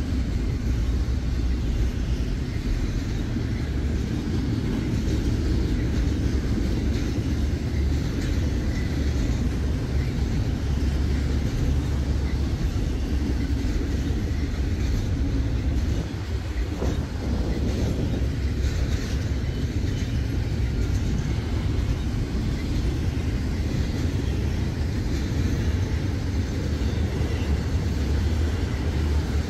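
Freight train's double-stack container well cars and then enclosed autorack cars rolling past close by: a steady rumble of steel wheels on rail.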